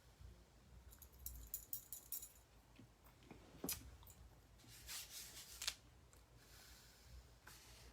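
Faint clicks and short rustles of small objects being handled on a work table, with one sharper click about halfway through, over near silence.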